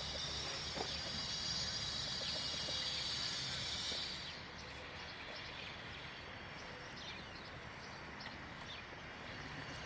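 Small birds chirping outdoors: a dense, high-pitched chorus that stops about four seconds in, leaving scattered short chirps.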